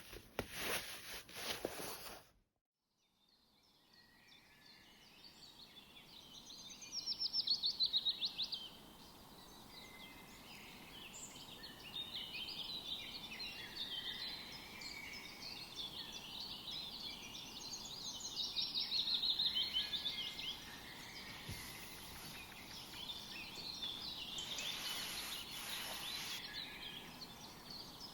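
Wild birds singing and chirping over a steady background hiss, with two loud, rapid trills of repeated high notes. The first two seconds hold clicking and rustling handling noise, which cuts off abruptly before the birdsong fades in.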